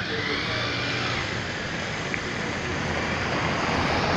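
Jet engines of a Boeing 737-700 (CFM56-7B turbofans) passing on approach, a steady rushing roar that grows slightly louder toward the end.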